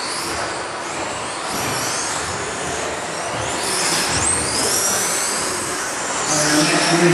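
Radio-controlled stadium trucks racing: several high motor whines rise and fall as the trucks speed up and slow down, over a steady wash of tyre and track noise.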